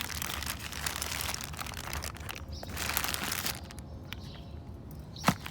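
Rustling and crinkling of handled packaging and papers, easing off after about three seconds, then a single sharp knock near the end.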